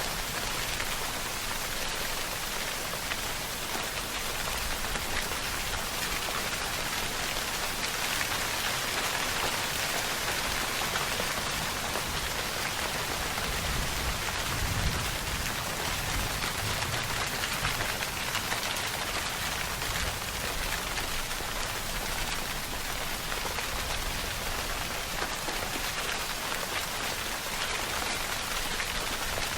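Steady rainfall: an even hiss of rain with the patter of drops landing on surfaces, a slight low rumble about halfway through.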